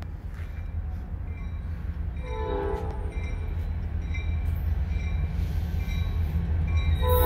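Diesel freight locomotive approaching a grade crossing: a steady low rumble grows louder, with a short horn sound about two and a half seconds in and a long horn blast starting near the end. The crossing's Safetran type 3 electronic bell dings faintly and regularly throughout.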